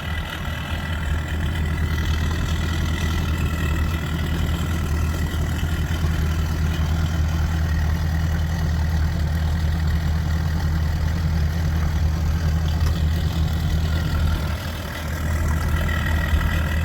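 Mercury ProXS 225 V8 four-stroke outboard idling steadily, an even low hum that dips briefly in level near the end.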